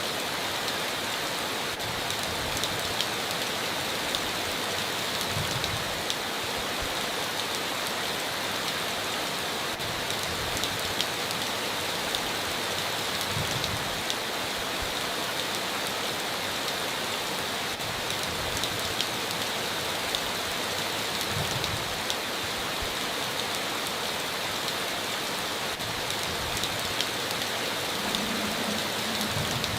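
Heavy rain falling steadily on a tin roof, with many sharp drop ticks over an even hiss.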